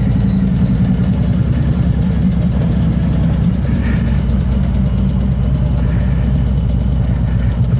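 Harley-Davidson Road King Special's V-twin engine running steadily at low revs, a loud low rumble with no change in pitch.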